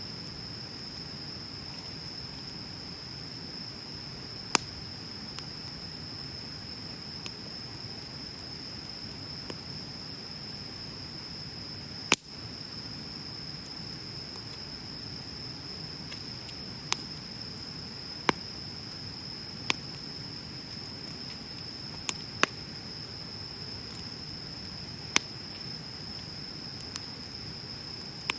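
Wood bonfire crackling: a low steady rush of the flames broken by sharp, isolated pops every few seconds, the loudest about twelve seconds in. A steady high-pitched insect trill runs underneath.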